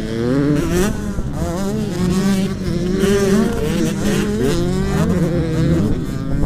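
Motocross dirt bike engines revving, their pitch rising and falling over and over as the throttle is worked.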